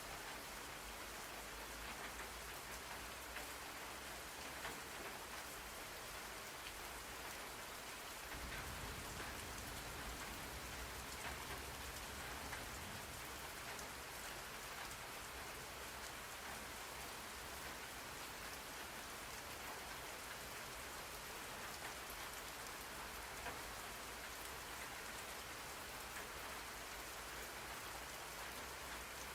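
Steady rain falling on a surface, an even hiss dotted with fine drop ticks, used as a white-noise rain ambience.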